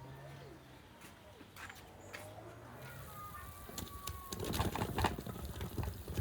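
A dove cooing in low, steady hoots. From about four seconds in, a run of clicks and knocks from something being handled rises over it.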